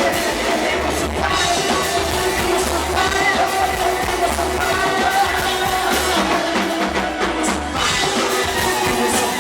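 Live rock band playing with drum kit and instruments, an instrumental passage of a song.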